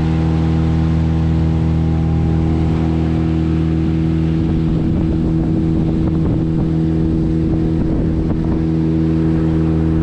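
Outboard motor of a small fishing boat running steadily at constant speed, a loud, even drone that holds one pitch throughout.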